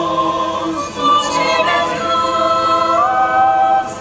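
A choir singing a cappella in slow, drawn-out sustained notes. The harmony steps up in pitch about three seconds in.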